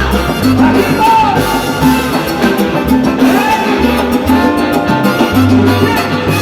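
Salsa band playing live, with a steady dance beat and a repeating bass line.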